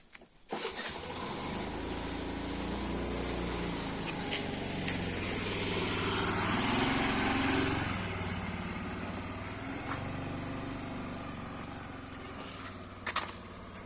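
A small engine running, growing louder to a peak about seven seconds in and then fading away, with a couple of sharp clicks near the end.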